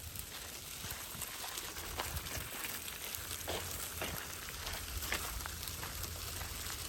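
Stroller wheels rolling over a bumpy trail: a dense, steady crackle of small clicks over a low rumble.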